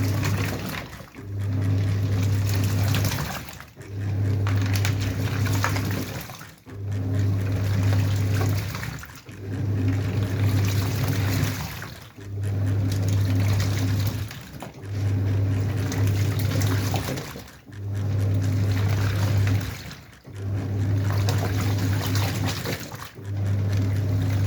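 Washing machine motor running in bursts of about two seconds with short pauses between, roughly every two and a half seconds, over churning water. It is the drum turning back and forth during the wash.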